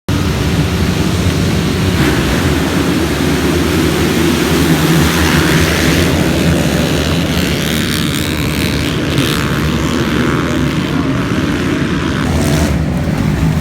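Motocross bike engines running on the track, a loud steady drone of several engines that starts abruptly.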